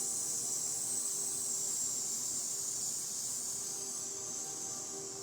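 A man's long, steady sibilant 'ssss' exhale through the teeth: the qigong lung healing sound, the held breath pushed slowly out. It eases slightly near the end.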